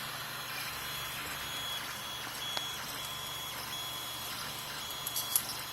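Tevo Tornado 3D printer running: its stepper motors give a high whine in short on-off stretches of varying length as the print head moves, over a steady fan hiss. A few sharp clicks near the end.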